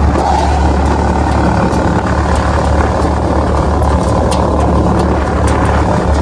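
Motorbike engine running steadily, a constant low drone with light scattered ticks over it.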